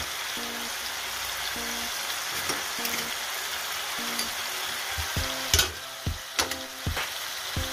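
Tomato, onion, garlic and pink shrimp paste sizzling in hot oil in a wok, with a steady frying hiss. From about five seconds in, a ladle knocks against the wok several times as stirring begins.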